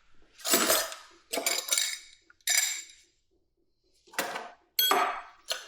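Metal hand tools clanking and clinking against metal: several sharp strikes with a short ring, with a pause about halfway through.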